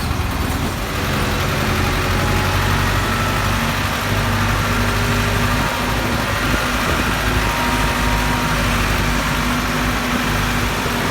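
Ford 6610 tractor's four-cylinder diesel engine running steadily, getting a little louder about a second in.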